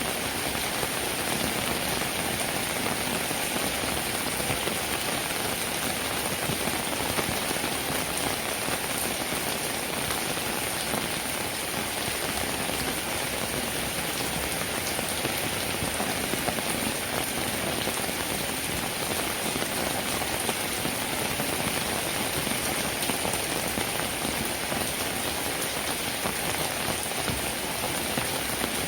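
Steady rain falling: an even hiss with a fine patter of drops, at a constant level.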